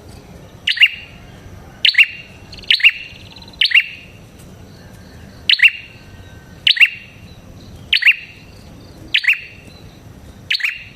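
Prenjak kepala merah (red-headed prenjak) calling over and over: a sharp double chirp falling in pitch, repeated about once a second.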